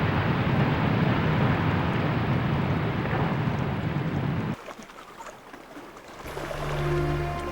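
Boat running on open water, a steady low rumble under wind noise on the microphone, which cuts off abruptly about four and a half seconds in. After a short quieter gap, music with long held notes comes in near the end.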